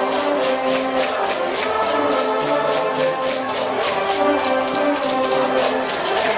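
High school brass band cheering section playing a fight song: sustained brass notes over a fast, steady drum beat.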